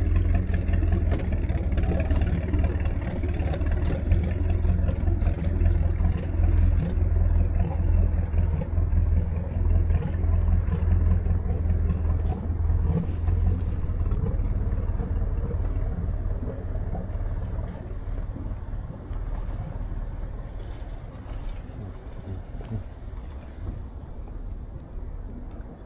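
Motorboat engine running with a steady low drone, growing gradually quieter from about halfway through.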